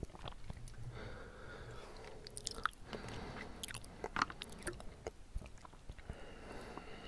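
Close-miked chewing of bubble tea tapioca pearls, with irregular wet clicks and bites.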